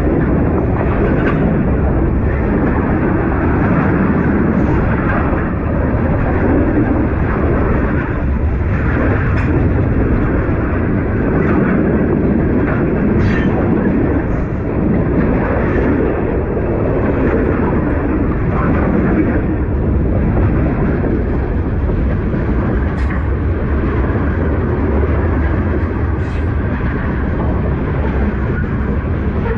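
Union Pacific freight cars rolling past close by: a steady, loud rumble of steel wheels on the rails, with scattered short clicks and squeaks.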